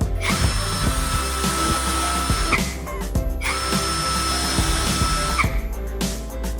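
Electric power tool motor run twice, each time for about two seconds, with a steady whine that rises as it spins up and falls as it stops, over background music.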